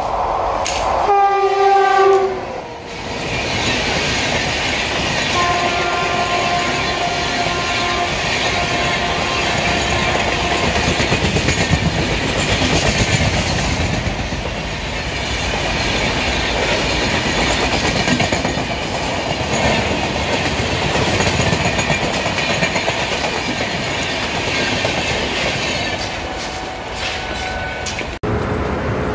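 Indian Railways trains on electrified track: a locomotive horn sounds about a second in, then after a break a long steady horn chord sounds for several seconds as an express runs past close by at speed. The coaches' rumble and wheel clatter go on for about twenty seconds, and another horn sounds faintly near the end.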